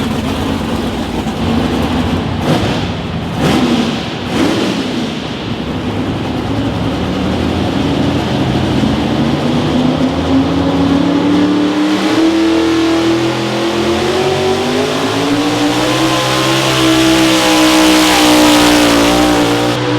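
Pulling vehicle's engine at a sled pull: a few short throttle blips, then a sustained full-throttle run whose pitch climbs steadily, levels off, and rises again, loudest near the end.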